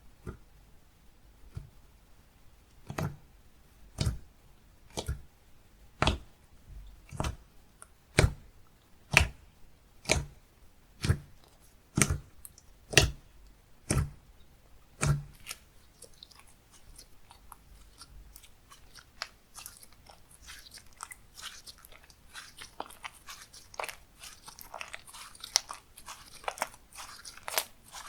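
Slime being pressed and worked by hand: a sharp pop about once a second for around twelve seconds, then a denser crackling, crunchy squish that builds toward the end.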